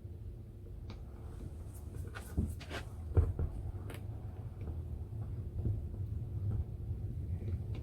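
Metal parts of an old car jack knocked and clinked together while it is reassembled, with a handful of sharp knocks about two to four seconds in, the loudest near the middle, over a steady low hum.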